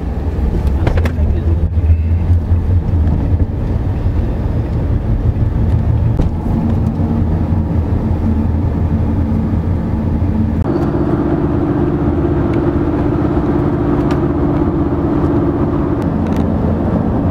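A vehicle running: a loud, steady low rumble with a held tone that shifts pitch about eleven seconds in.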